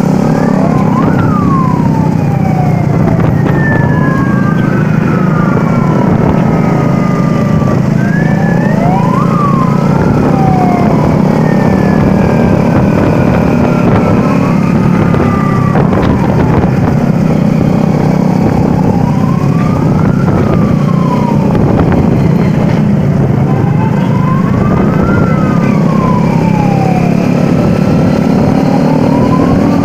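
Sirens wailing, their pitch rising and falling every few seconds with more than one sounding at once, over the steady drone of many vehicle engines running together, as in an escorted convoy.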